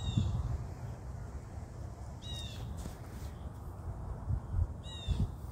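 A bird calling outdoors: three short, harsh calls about two and a half seconds apart, over the steady low rumble of wind on the microphone.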